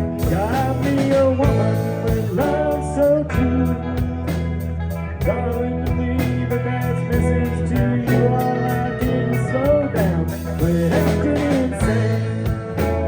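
A live band playing a bluesy country-rock song, with guitar, bass and a steady drum beat.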